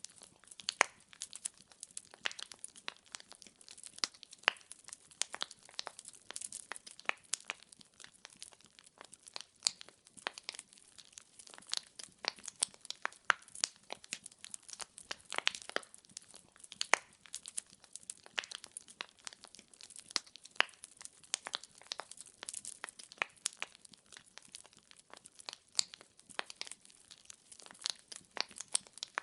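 Firewood burning and crackling: a dense, irregular run of sharp pops and snaps over a faint hiss, with a few louder cracks scattered throughout.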